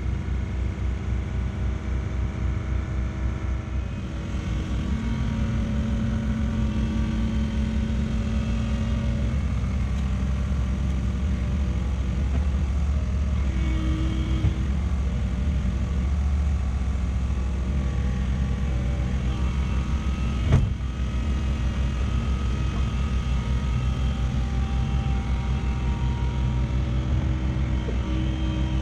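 Truck's diesel engine running steadily, its note shifting a few seconds in. A single sharp knock about two-thirds of the way through.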